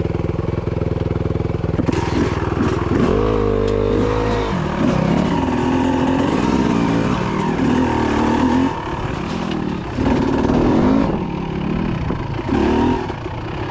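Dirt bike engine running steadily for about three seconds, then revving up and down with the throttle in repeated rises and falls.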